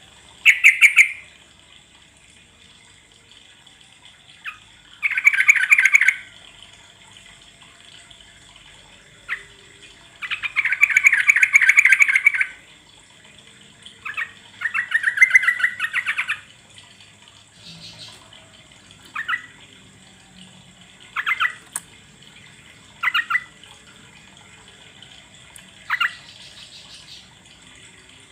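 Yellow-vented bulbul (trucuk) song: bursts of fast, bubbly chattering phrases, the longest lasting about two seconds, broken up by short single call notes.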